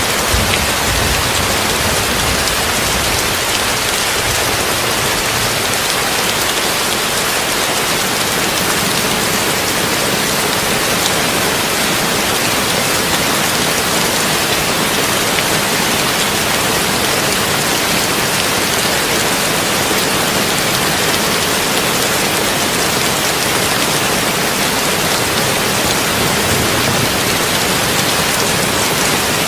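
Heavy rain on a tin roof, a steady dense hiss blended with brown noise, with a brief low rumble near the start.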